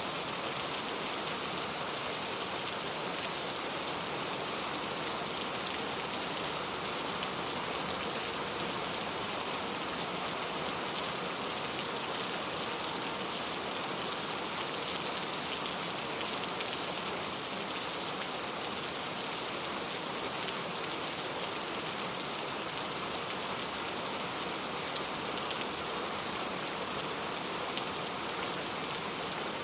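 Steady rain falling and pattering on a surface, an even hiss of many drops with faint individual drop ticks and no change in intensity.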